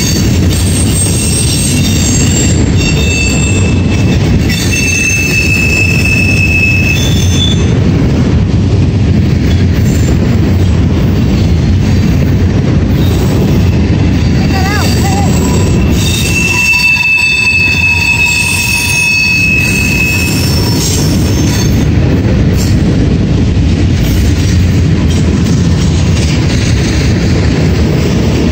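Norfolk Southern freight train's covered hopper and tank cars rolling past: a steady, loud low rumble of wheels on rail. A high metallic squeal rises out of it twice, from about two to seven seconds in and again from about sixteen to twenty seconds.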